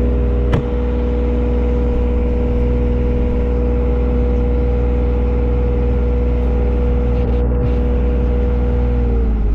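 Engine running steadily at high idle, dropping in pitch as it is throttled down near the end. There is a sharp click about half a second in.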